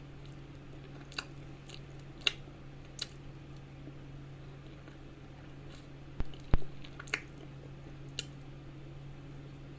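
Close-miked mouth sounds of eating banana: scattered wet clicks and squishes of chewing, the loudest pair about six seconds in, over a steady low hum.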